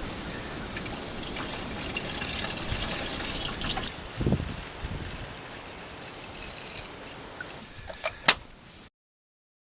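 Windshield washer fluid being poured into a car's washer reservoir: a steady trickling that is strongest for about four seconds and then fades. A single sharp click comes near the end.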